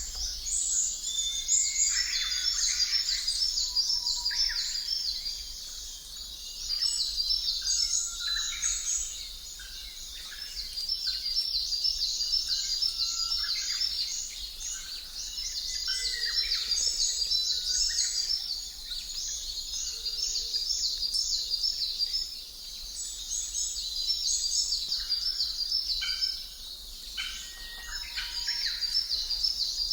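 Birdsong ambience: several birds chirping and calling, with bursts of high rapid chirps that come and go every few seconds over a faint background hiss.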